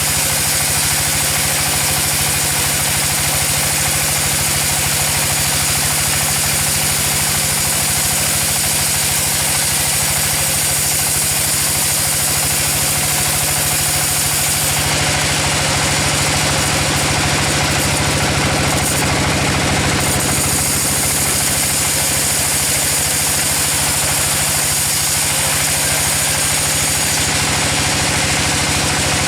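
A sawmill's engine running steadily at a constant level. The high hiss shifts for a few seconds about halfway through.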